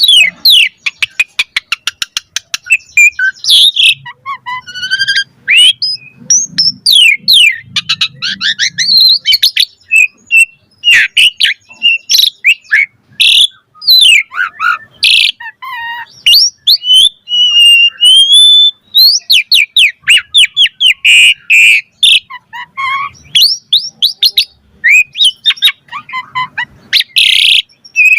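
Asian pied starling (jalak suren) singing a fast, varied song of rising and falling whistles, rapid trills and harsh chattering notes, with hardly a pause.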